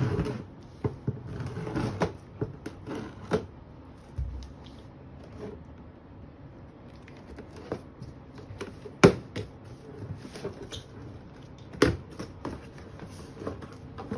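Printer box and its packaging being handled and opened: scattered knocks, taps and rustling, with two sharper knocks about 9 and 12 seconds in.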